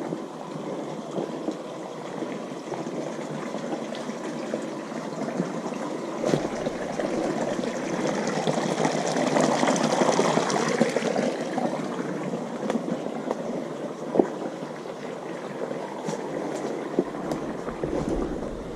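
A steady, constant flow of running water, swelling louder about halfway through and then easing, with a few sharp clicks. The speakers wonder whether this water is being drained from the old mine.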